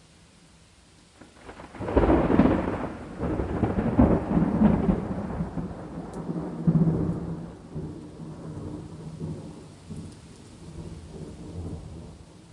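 A thunderclap breaks about two seconds in and rolls on in several surges of rumble that slowly die away, over a steady hiss of rain.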